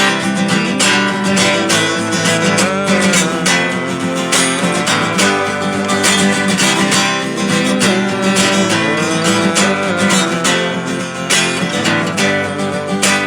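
Music: strummed acoustic guitar playing an instrumental passage between sung verses, with a melody line that slides between notes over it.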